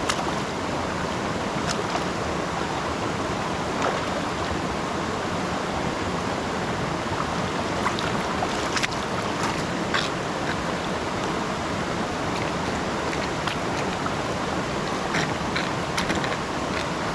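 River water rushing steadily, with a few short sharp ticks over it around the middle and again near the end.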